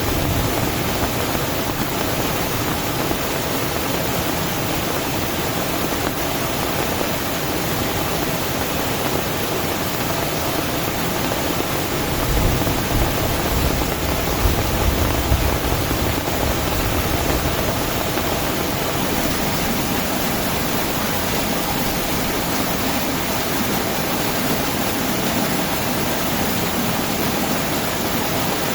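Heavy rain pouring steadily, a dense even hiss, with a low rumble swelling for a few seconds about twelve seconds in.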